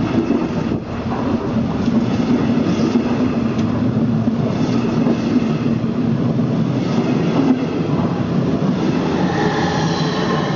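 Train running on the rails, a steady loud rumble with a low hum, and a faint rising whine near the end.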